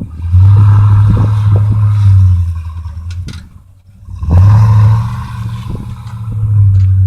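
Snowplow truck's engine revving in three surges, each rising and falling away.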